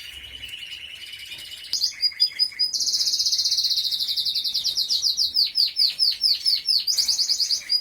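Timbrado Español canary singing: a faint, steady high note at first, then from about two seconds in a loud, very fast high trill, broken near the end by a run of slower sliding notes before the rapid trill picks up again.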